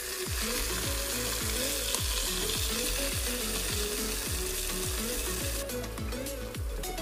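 Pieces of salted fish (makayabu) frying in hot oil in a pan, sizzling in a steady hiss that cuts off about five and a half seconds in. Background music plays throughout.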